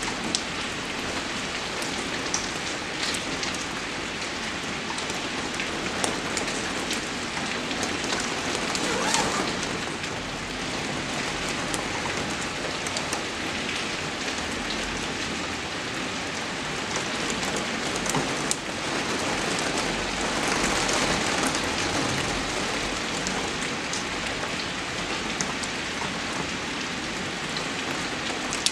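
Steady rain falling: an even hiss with scattered sharper drop ticks, swelling slightly about a third of the way in and again about two thirds in.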